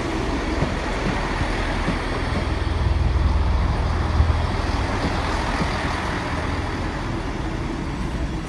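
Class 158 diesel multiple unit arriving past the level crossing: a steady low engine drone and rumble that swells about three seconds in and then eases a little.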